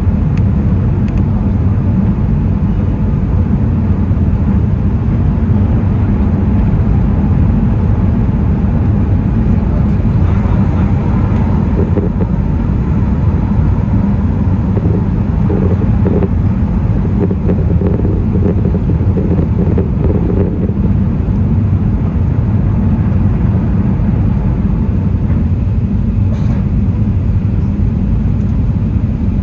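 Steady, loud cabin noise of an Airbus A380: a deep, even rumble of engines and air, heard from inside the economy cabin.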